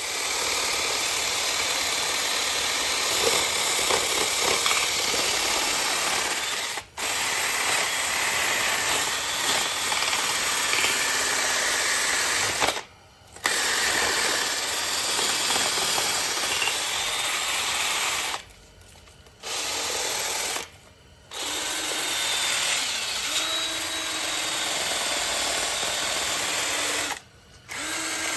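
Compressed air from an air-hose blow gun hissing loudly in long blasts, blowing rat droppings out of the engine's cooling tin. It stops briefly about five times as the trigger is let go.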